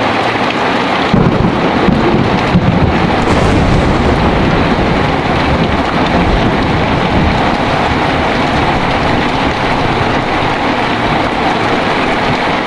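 Heavy steady rain with a thunderclap about a second in: a sharp crack, a second crack a moment later, and a low rumble that rolls on for several seconds.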